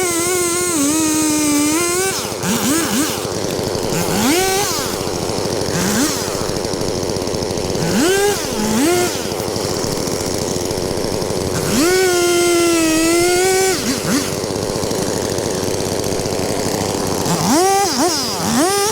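Two-stroke chainsaw held at full throttle for stretches of about two seconds, near the start and again about twelve seconds in, its pitch sagging a little as it takes load. Between these it drops back toward idle, with quick throttle blips about every two seconds and a cluster of blips near the end.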